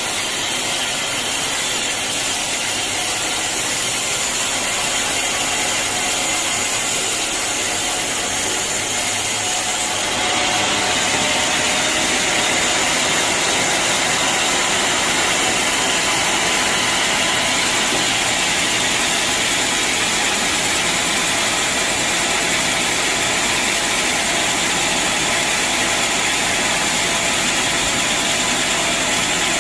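Band sawmill running steadily as it saws a teak log. About ten seconds in, the sound gets louder and fuller.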